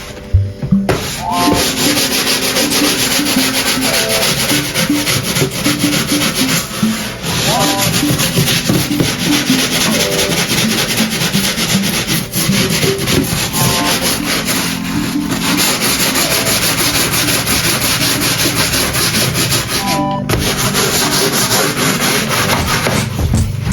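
Steady scrubbing noise, as of a surface being scrubbed hard, starting about a second in and pausing briefly a few times. Faint background music lies underneath.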